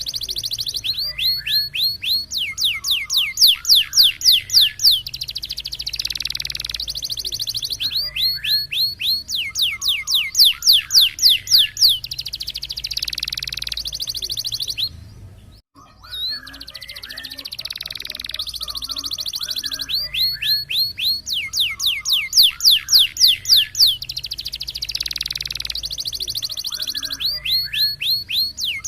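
Domestic canary song of the roller type: long rolling trills alternating with runs of loud, sharp sweeping 'tembak' notes at about four a second, the phrases repeating over and over. The song cuts out for a moment about halfway through, then starts again.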